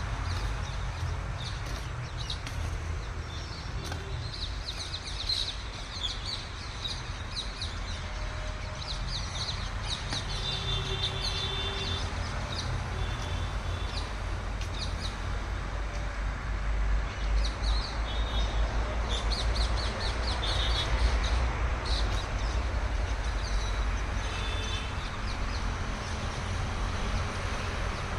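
Small birds chirping and twittering, with many short repeated calls, over a steady low rumble.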